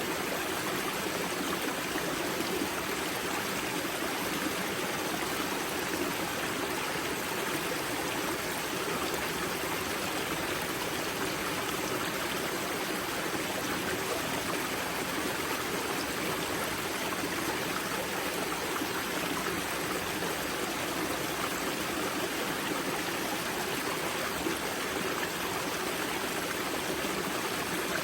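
Water of the Grza river spring rushing and splashing steadily over rocks, an even, continuous rush.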